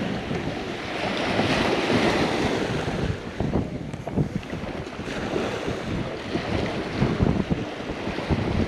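Wind buffeting the microphone in uneven gusts over the steady wash of surf.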